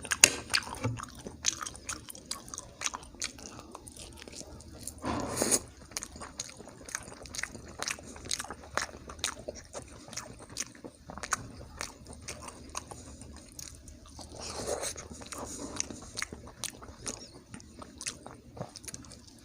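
Close-miked mouth sounds of a person eating: chewing and biting with many quick wet clicks. There are two louder, longer sounds, about five seconds in and around fifteen seconds.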